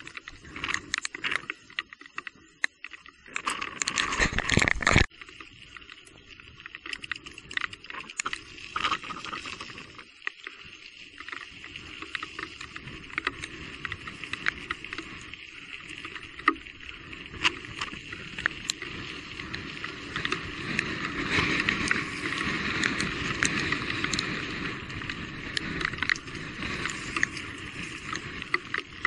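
Riding an electric mountain bike along a wet dirt trail: steady tyre and wind noise with many small knocks and rattles. A loud rush of noise lasts about a second and a half a few seconds in.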